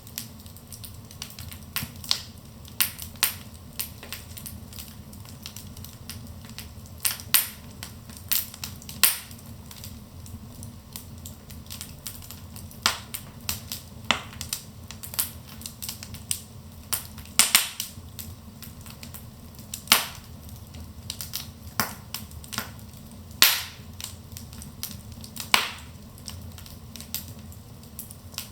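Wood fire burning in a fireplace: irregular sharp crackles and pops, a few of them much louder snaps, over a low steady rumble of the flames.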